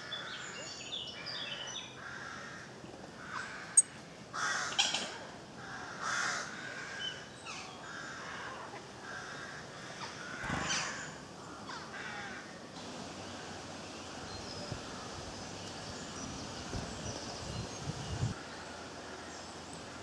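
Wild birds calling in woodland: a run of short, noisy calls through the first twelve seconds, with a sharp click about four seconds in. Later the background is steadier, with a low rumbling near the end.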